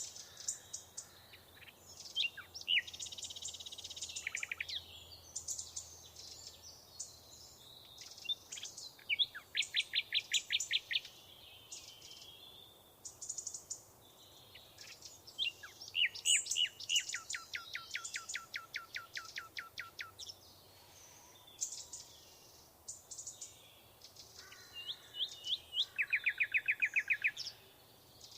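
Several songbirds singing and chirping, with a rapid trill of quickly repeated falling notes coming three times, each about two seconds long.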